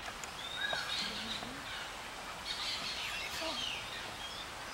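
Wild birds chirping: a scatter of short high calls, several of them sliding down in pitch, over a steady background hiss.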